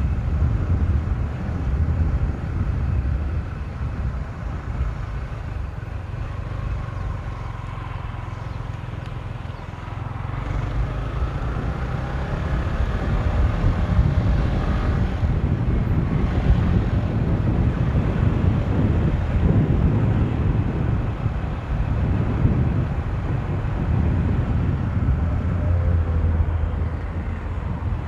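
Motorcycle being ridden, its engine running under heavy wind rumble on the microphone. The sound eases off for a few seconds about a third of the way in, then builds again.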